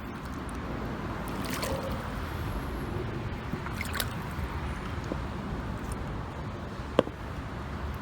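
Water trickling and dripping around a kayak being paddled on a river, over a steady low rumble, with one sharp knock about seven seconds in.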